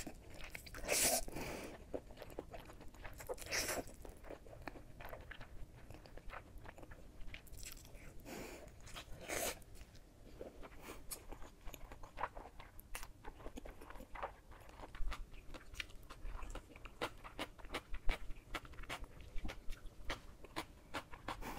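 Eating sounds of spicy cold buckwheat noodles (bibim naengmyeon): a few longer slurps in the first half, then steady chewing with many short, crisp crunching clicks.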